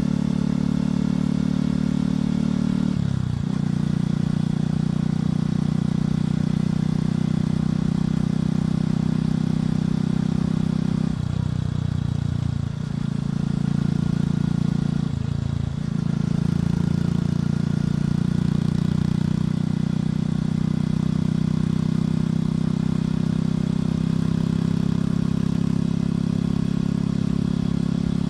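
Motorcycle engine and exhaust running steadily while riding. The engine note shifts a few times, briefly dipping about 11 and 15 seconds in, as the throttle or gear changes.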